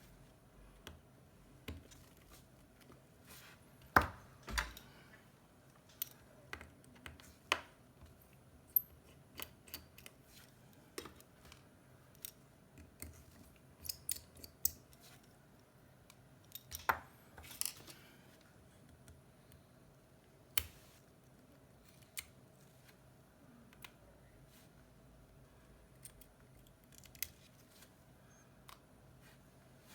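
Scattered small clicks and taps of repair tools against an iPhone 7's parts during disassembly, with a few sharper knocks about four and seventeen seconds in, over a faint steady hum.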